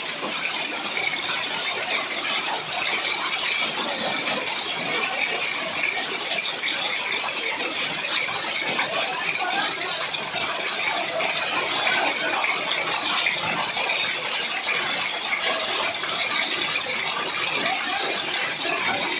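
Steady rain falling, a continuous even hiss that keeps the same level throughout.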